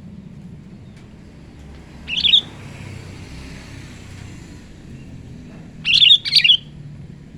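Sooty-headed bulbul (kutilang) calling: one short bubbly phrase about two seconds in, then two more in quick succession near the end, over a steady low hum.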